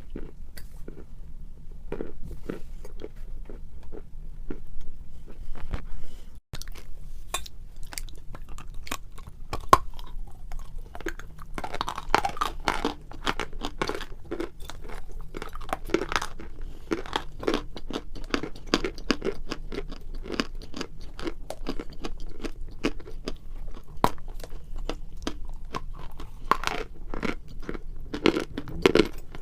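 A person biting and chewing crumbly dry clay close to the microphone: a dense run of sharp crunches, busiest from about twelve to twenty seconds in.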